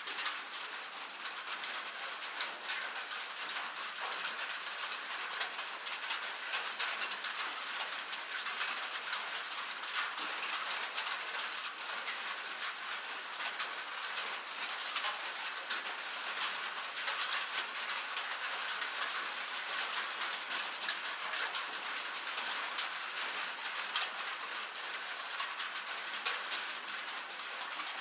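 Rain falling on a metal roof: a steady, dense patter of many sharp ticks, bright and without low rumble.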